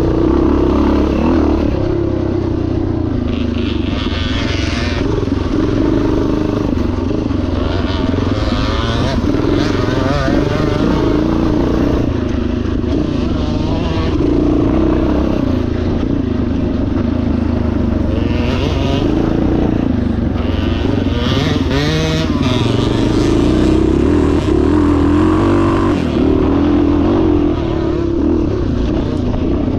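Yamaha TT500 single-cylinder four-stroke motorcycle engine running under way off-road, its pitch wavering up and down with the throttle.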